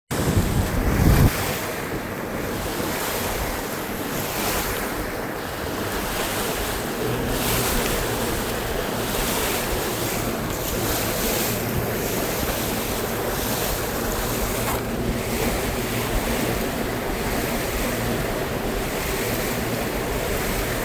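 Wind buffeting the microphone over choppy lake water lapping against the bass boat's hull, with a heavy gust in the first second.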